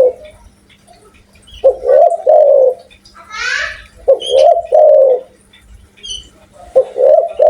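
Spotted dove cooing loudly, three repeated multi-note coo phrases a couple of seconds apart.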